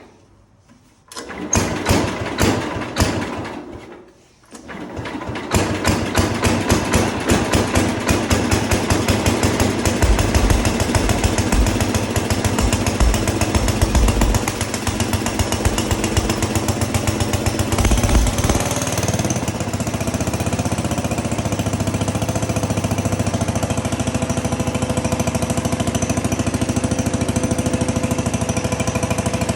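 1961 Cub Cadet's single-cylinder Kohler engine cold-starting: it fires about a second in, dies away around four seconds, then catches again and keeps running with a rapid, uneven thumping. About two-thirds of the way through it settles to a steadier, slightly quieter run.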